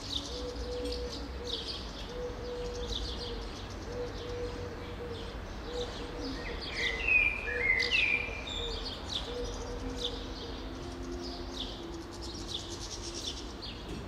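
Woodland birdsong: several birds chirping and twittering together in quick high notes, with a louder run of sliding whistled notes about halfway through. A faint low steady hum sits underneath.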